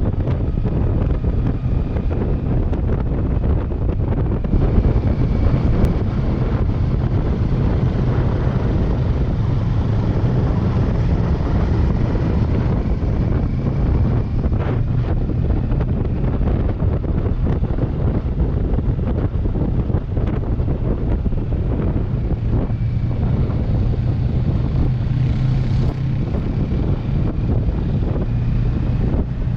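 Kawasaki Versys 650 parallel-twin engine running steadily at cruising speed, half buried under wind buffeting on the microphone.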